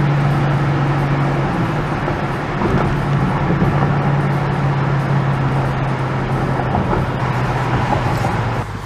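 Bentley Continental GT V8 S's 4.0-litre twin-turbo V8 with sports exhaust running at a steady, light-load cruise, its drone sinking slowly in pitch. It cuts off sharply near the end.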